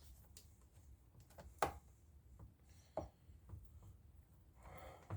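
Quiet handling noises while taking apart a McCulloch Mac 3200 chainsaw: a few sharp clicks and light knocks of a screwdriver and the saw's plastic parts. The loudest click comes about a second and a half in, with another about three seconds in.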